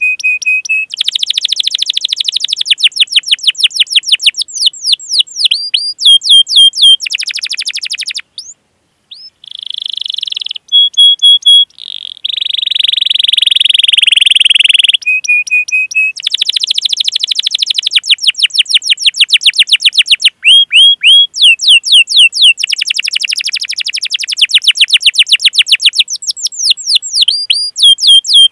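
Canary singing a long song: fast trills and steady rolls alternating with runs of repeated downward-sweeping 'cuit cuit' calls, broken by short pauses about 8 and 12 seconds in.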